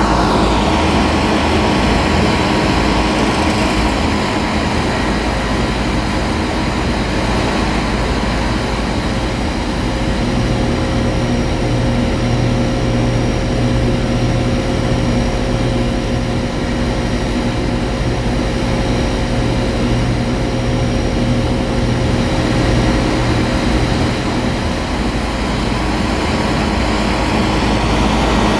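Outdoor central air-conditioner condensing units running in cooling mode: a steady compressor hum under the rush of the condenser fan, with a stronger low hum in the middle of the stretch.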